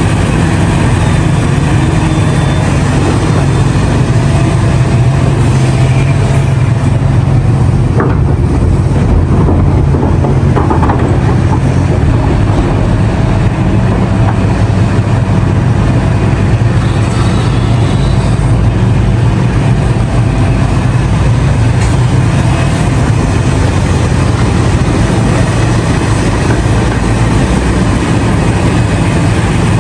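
Diesel engine of a large hydraulic mining excavator, a CAT 6015B, running under load with a steady low drone while it loads a haul truck. A single short knock comes about eight seconds in.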